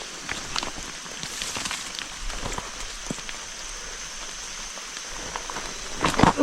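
Rain pattering on forest leaves, many small scattered drops over a steady hiss, with a louder burst of noise just before the end.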